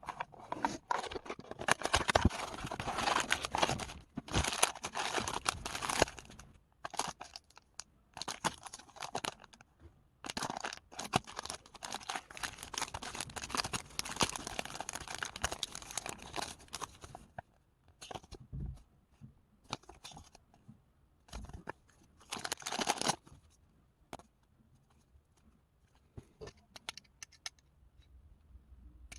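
Foil packet wrappers and the packaging of a box of Panini packets being torn open and crinkled by hand, in long stretches of tearing with short rustles and clicks between.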